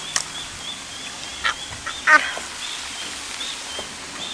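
Birds calling: a steady run of short, high chirps, with a few louder, harsher calls breaking in near the start, about a second and a half in and again at two seconds.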